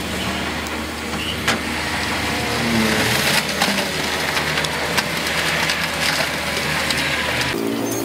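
Diesel engines of heavy earthmoving machinery running, with the engine pitch rising briefly about three seconds in and a few sharp clicks or knocks. The engine sound changes abruptly near the end.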